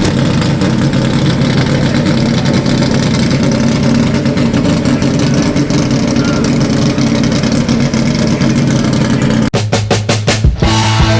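A car engine running loud and steady with a heavy, low rumble. About nine and a half seconds in it cuts off and music with a beat begins.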